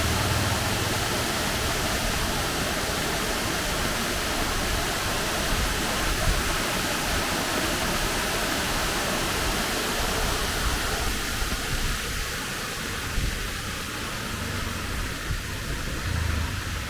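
Heavy rain falling with a steady hiss, with a low rumble near the start and again near the end.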